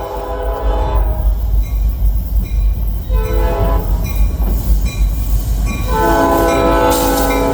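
Locomotive air horn blowing a chord in a long–short–long pattern: a blast ends about a second in, a short blast follows near three seconds, and a long blast starts near six seconds, as at a grade crossing. The heavy low rumble of the train runs underneath.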